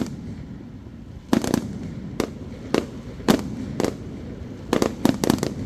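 Aerial firework shells bursting in a rapid, irregular series of sharp bangs, about a dozen, starting about a second in and crowding together near the end, over a low rumble.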